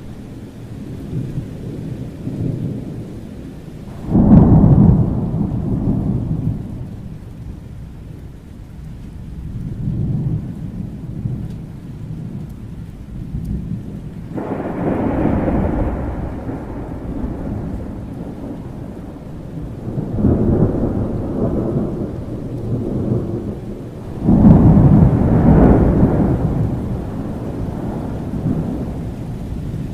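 Thunderstorm: steady rain with rolling thunder. A sudden loud thunderclap about four seconds in and another near the end, with slower rumbles swelling and fading in between.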